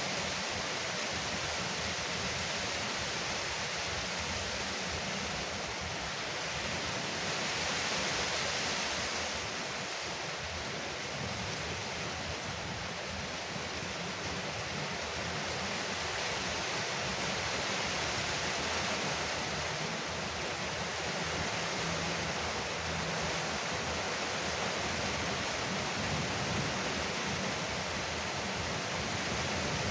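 Heavy rain drumming steadily on a veranda roof, a dense even hiss that swells slightly about eight seconds in.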